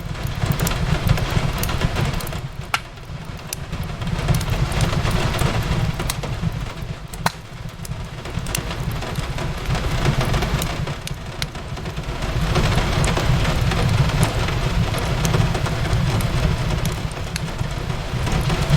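Steady rain over a low rumble that swells and eases, with the occasional sharp pop of a crackling wood fire.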